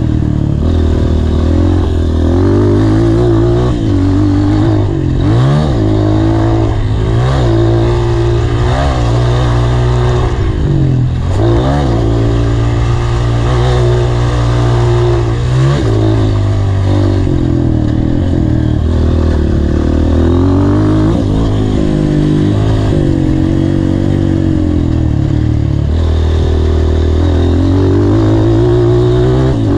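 Honda CRF230 dirt bike's single-cylinder four-stroke engine under hard riding, its pitch climbing and dropping again and again as the rider works the throttle and shifts gears.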